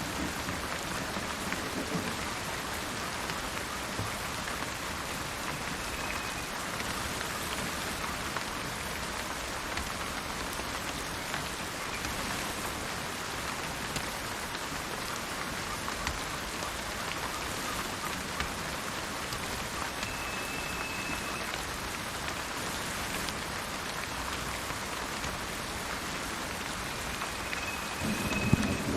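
Steady rain falling, with a bird giving a few short, high, steady whistled notes. A low rumble of thunder starts to swell near the end.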